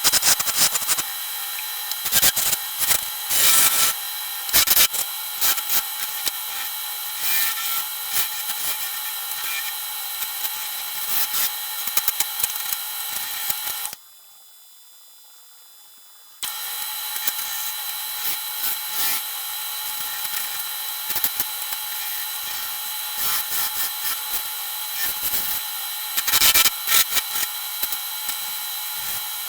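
Wood lathe running with a steady whine while a turning chisel scrapes and cuts the spinning wood, the scraping coming unevenly. The sound drops away for about two seconds midway, then resumes.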